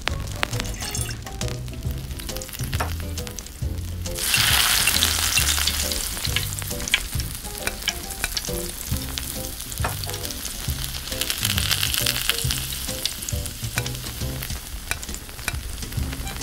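Hot oil sizzling in a tiny steel wok: a sudden loud hiss about four seconds in as chopped food goes into the pan, easing off, then swelling again later. A small spoon clicks and scrapes against the metal pan while stirring, over soft background music.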